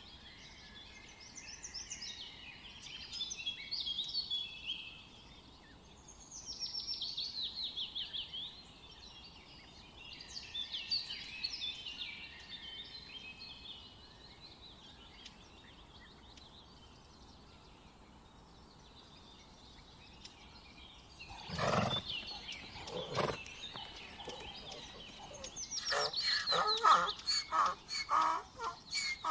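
Domestic fowl calling: high-pitched chirping through the first half, then two louder calls and a quick stuttering run of calls near the end.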